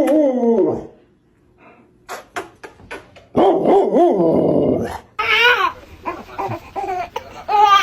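A dog whining and yelping: a long wavering whine, then a run of short, falling yelps, about three a second, near the end. A few sharp clicks come between.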